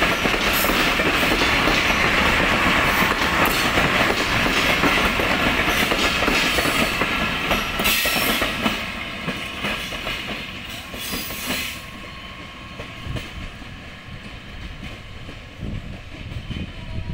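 Intercity express passenger coaches rolling past at speed, the wheels clattering over the rail joints. The clatter is loud for the first half, then fades from about halfway through as the last coaches go by and the train draws away.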